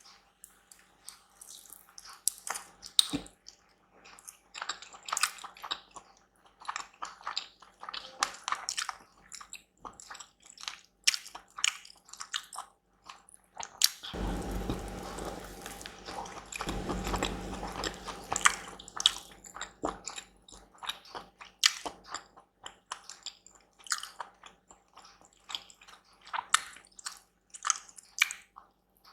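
Close-miked eating: irregular wet smacks, bites and chewing clicks. About halfway through there are a few seconds of denser, louder continuous noise.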